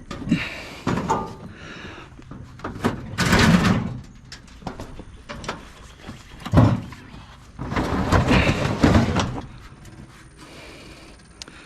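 Knocks, clunks and scraping as a bulky piece of scrap is handled and shifted, with the loudest scrapes about three, six and a half and eight to nine seconds in.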